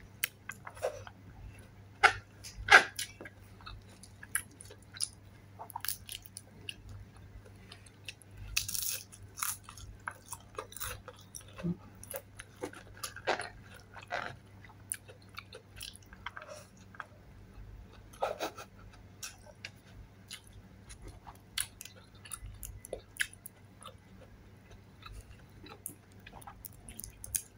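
A person chewing and biting fried chili spring rolls (chili dynamite), with scattered crisp crunches of the fried wrapper and wet mouth sounds, over a faint steady low hum.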